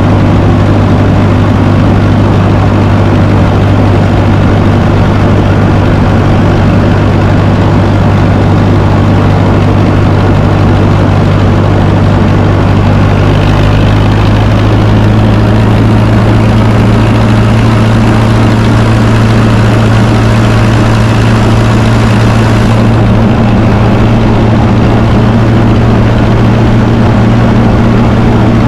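1954 Fordson tractor engine running steadily, its note changing slightly about halfway through.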